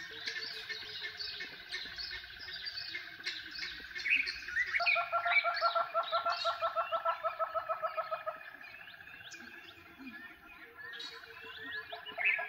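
Wild birds chirping and calling together. From about five seconds in to about eight seconds, one bird gives a loud run of evenly repeated calls, about five a second.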